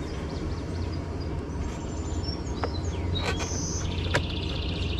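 Songbirds chirping and trilling over a steady low outdoor rumble, with a few sharp clicks of plastic parts being handled during reassembly.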